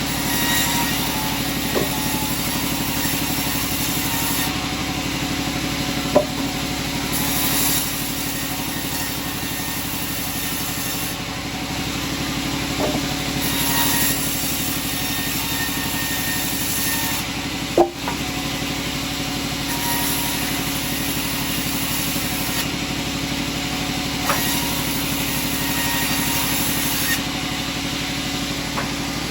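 Sawmill machinery running steadily with an engine drone, a high hiss that comes and goes every few seconds, and a few sharp knocks spread through it.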